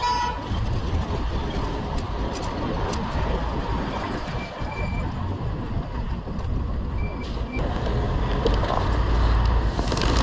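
City street traffic with heavy wind rumble on the microphone, as while riding an electric scooter. A short pitched beep sounds at the start, and a few brief faint beeps come in the middle.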